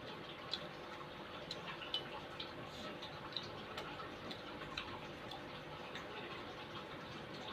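Eating sounds from a bowl of soto mie with crispy tofu: scattered small clicks and taps of a spoon against the bowl, several seconds apart, over a faint steady hum.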